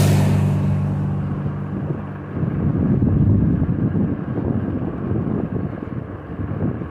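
A motor vehicle passes close by, its engine hum lasting about two seconds after the loudest moment and then stopping, followed by wind buffeting the microphone with an uneven low rumble.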